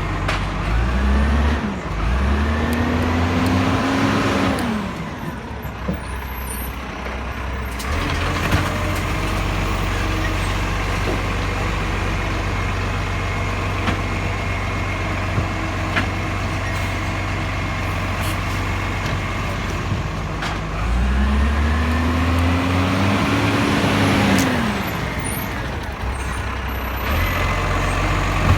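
Garbage truck's diesel engine running steadily, twice revving up, holding and dropping back, about 20 seconds apart, as the engine speeds up to drive the hydraulics for a bin lift. A few short clanks and hisses sit over the engine.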